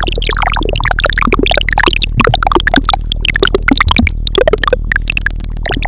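Harmor software synthesizer playing a resonant, noise-filtered patch: a steady deep bass note under rapid, bubbly gurgling blips, watery enough to sound like a water bottle.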